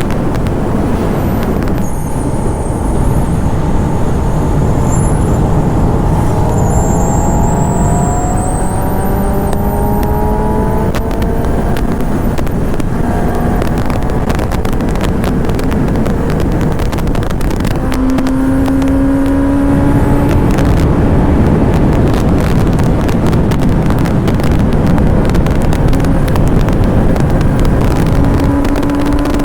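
1000cc inline-four superbike engine pulling hard at speed, its pitch climbing in long rises several times, each rise breaking off and starting again lower, over heavy wind rush.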